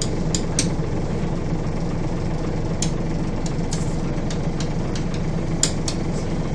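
Scania bus engine running with a steady low drone, heard on board, with scattered sharp clicks and rattles through it.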